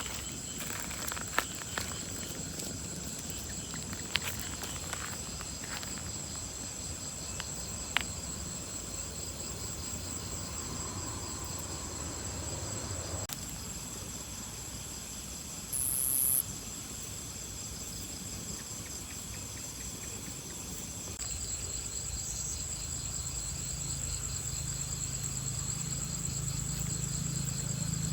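Insects chirring steadily in a high, thin continuous tone, with a second pulsing chirr joining about three-quarters of the way through. A few sharp clicks sound in the first several seconds, and a low hum comes up near the end.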